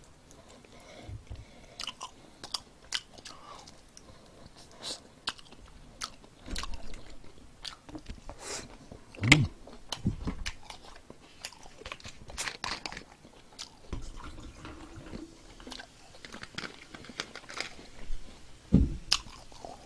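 Close-up chewing and biting of crispy fried chicken, with irregular sharp crunches of the batter.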